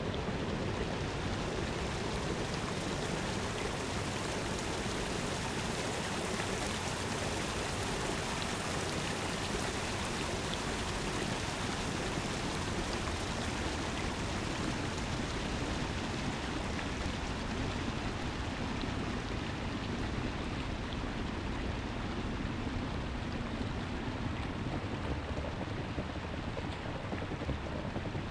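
Steady rushing wind and road noise from a bicycle being ridden at a cruising pace, with no breaks or changes.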